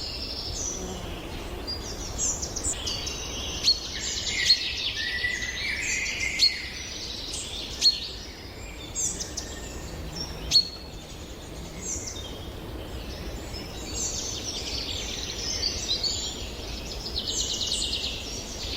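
Several songbirds singing and calling over one another in high, overlapping chirps and song phrases. A few sharp, louder single chirps stand out every second or two in the first half.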